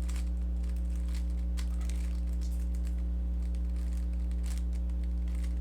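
A steady low electrical hum, with faint, irregular plastic clicks and rattles from a Rubik's cube being turned by hand.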